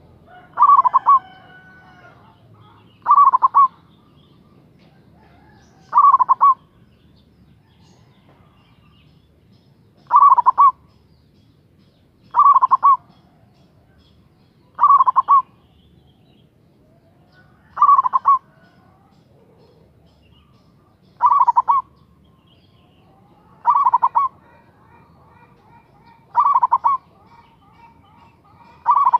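Local Javanese zebra dove (perkutut) in full song: a short, rolling coo phrase of rapid pulsed notes, repeated about eleven times at intervals of two and a half to four seconds.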